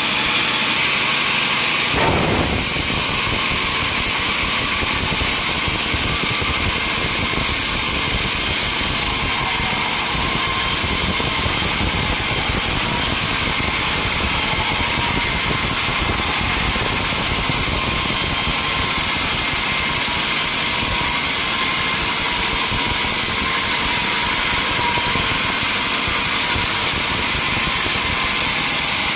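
Sawmill machinery running steadily: a saw and its motor going without pause, with a brief change in the sound about two seconds in.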